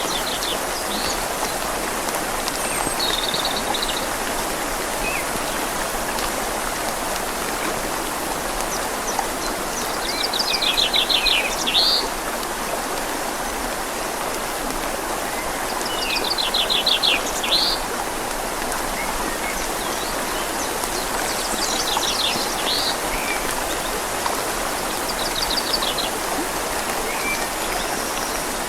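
Steady rush of a flowing river with rain falling on leaves, and a bird calling several times in short, rapid trills.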